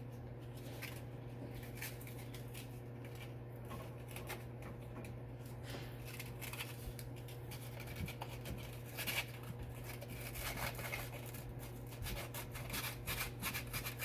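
Rust being sanded by hand off a bolt hole in a truck's steel body with an abrasive, to clean it back for a ground strap connection, in short scratchy strokes that grow quicker and louder in the last few seconds. A steady low hum runs underneath.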